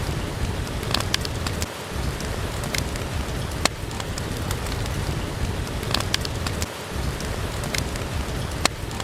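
Steady rain with a low rumble, with scattered sharp pops of a crackling wood fire about every second or two.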